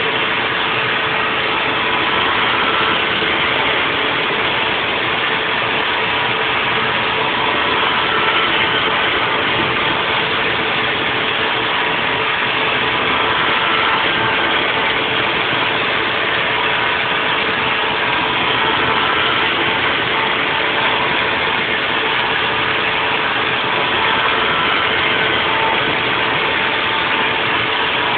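Haas VF4 CNC vertical mill machining: a steady, even mechanical noise with a constant tone through it and fainter higher tones that come and go briefly.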